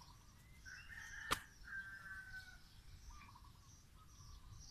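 Faint bird calls with short high chirps repeating in the background, and one sharp click about a second in.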